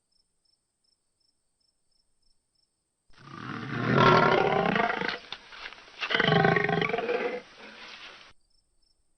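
Lion roaring: two long roars starting about three seconds in, the second followed by a fainter tail that ends shortly before the close.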